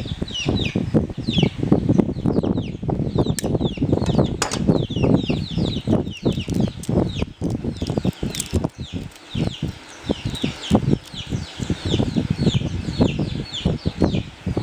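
Birds chirping in quick, high peeps that fall in pitch, several a second, over a constant low fluttering.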